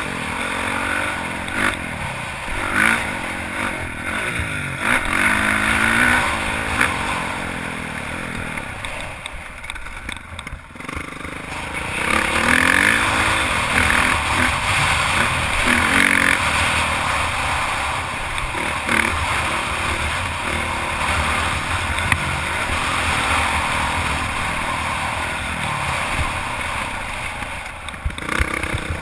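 Honda CRF450 single-cylinder four-stroke motocross bike ridden on a track, its engine revving up and falling back again and again through the gears. The engine drops briefly near ten seconds, then pulls hard again.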